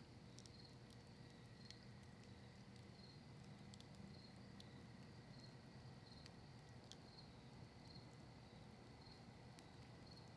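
Faint crackling of a campfire burning cedar leaves and maple wood: scattered small sharp pops and ticks over a low steady hiss.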